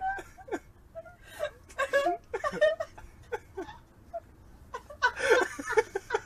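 Short vocal sounds that rise and fall in pitch, with a louder burst of laughter about five seconds in.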